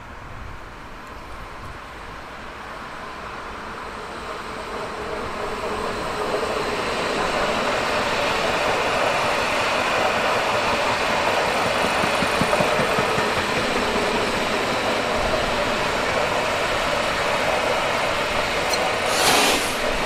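A train approaching on the rails, its running noise growing louder over the first six seconds and then holding steady as it goes by. A short, loud hiss near the end.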